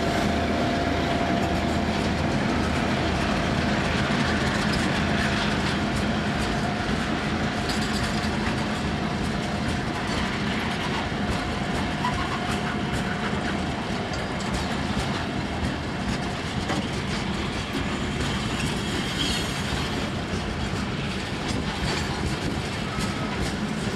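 Freight train rolling past, its wagon wheels clicking over the rail joints in a steady clickety-clack, with a faint steady whine that fades out about halfway through.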